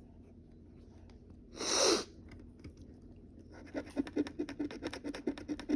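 Scratch-off lottery ticket being scratched, a run of quick short rubbing strokes starting about three and a half seconds in. A short hissy burst comes a couple of seconds before.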